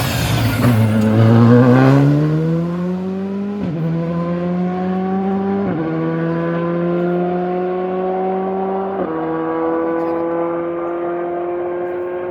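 Rally car passing at full attack, then accelerating away with the engine note climbing through the gears and three upshifts, about 3.5, 5.5 and 9 seconds in.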